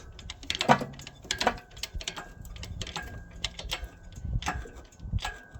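Engine hoist (cherry picker) being worked to lift a Deutz F3L 2011 air-cooled diesel engine on its chain: a run of metallic clicks and knocks, a sharp clank a little under a second in, and a thin squeak with the later strokes.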